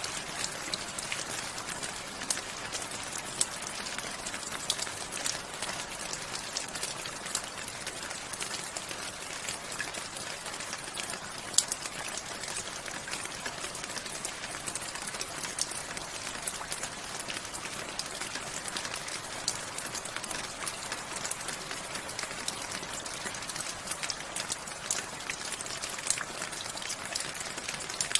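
Steady rain falling, an even hiss with many individual drops ticking sharply on a hard surface, one louder drop about eleven seconds in.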